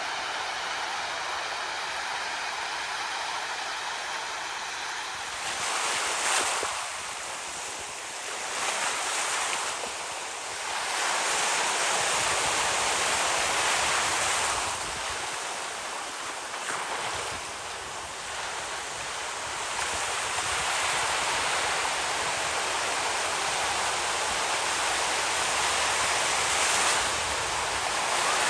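Ocean surf: waves breaking and washing up the shore, swelling and falling back several times. The first few seconds are a steadier hiss before the surges begin.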